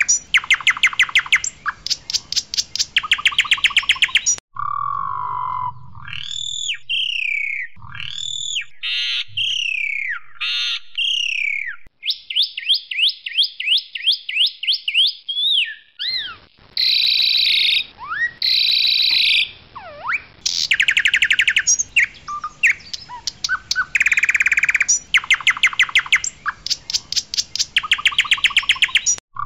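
Asian pied starling (jalak suren) singing loudly: a varied song of fast rattling trills alternating with clear whistles, rising and falling slurred notes, and a rapid buzzy run of notes near the middle.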